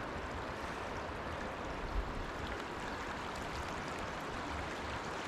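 Mountain creek water rushing steadily over rocks, with one brief low thump about two seconds in.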